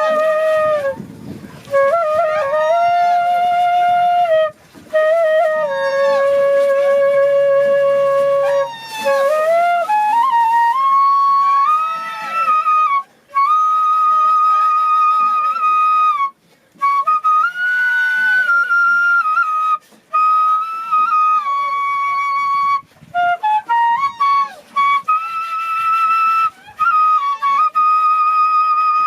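Solo flute playing a slow melody of held notes with slides and quick grace notes, pausing briefly for breath between phrases.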